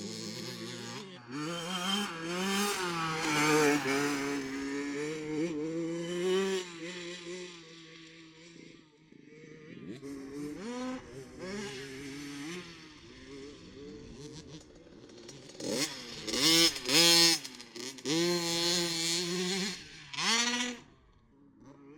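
Motocross bikes riding the track, their engines revving up and dropping off again and again through gear changes and jumps. They are quieter in the middle and loudest about three-quarters of the way through.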